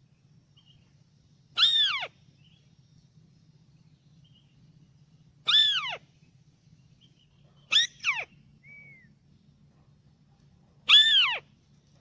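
White-browed crake calling: short nasal calls that each swoop steeply down in pitch, given singly every few seconds, with a quick double call in the middle. A faint short whistle follows the double call.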